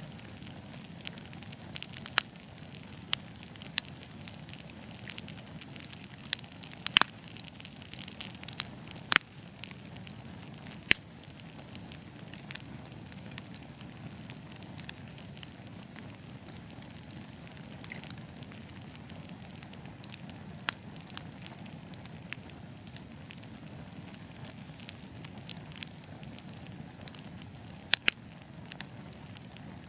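Wood fire burning with a steady low rumble and scattered sharp crackles and pops, a few of them much louder than the rest.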